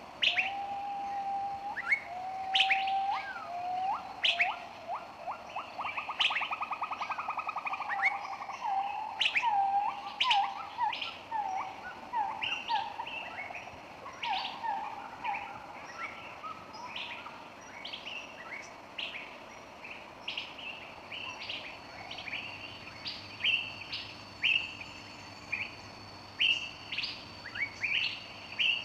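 Birdsong from several birds: many short, sharp chirps throughout, with a lower drawn-out whistle and a rapid trill in the first few seconds.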